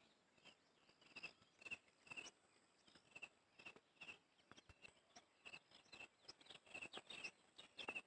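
Near silence with a faint, high chirp from a bird, repeated at one pitch about twice a second, and scattered soft clicks and rustles of footsteps on a dry grassy path.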